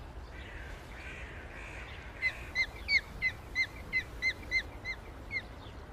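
Osprey calling: a quick run of about a dozen short, high chirps, about three or four a second, beginning about two seconds in.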